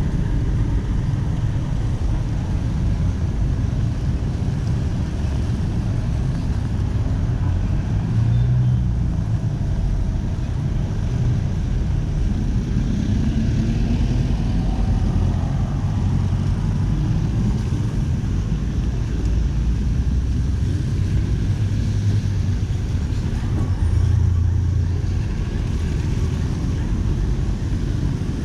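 City street traffic: cars and other vehicles passing in a steady, dense low rumble that swells a few times as nearer vehicles go by.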